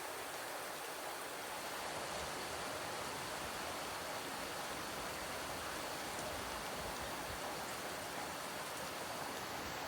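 Steady summer rain falling, an even hiss without distinct drops or breaks.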